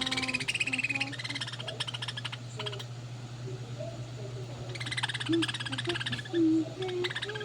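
Two budgerigars chattering with rapid, scratchy chirps in two bouts, one at the start and another about five seconds in, as they squabble with each other. A steady low hum runs underneath.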